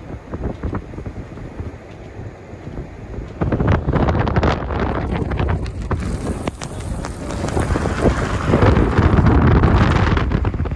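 Storm wind buffeting the microphone over the low rumble of a vehicle driving. It jumps louder about three and a half seconds in and swells again near the end.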